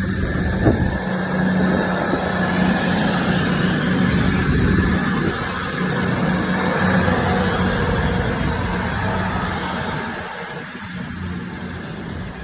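A train running past close by at the station, with a steady engine hum over running noise; it grows louder over the first seconds and eases off toward the end.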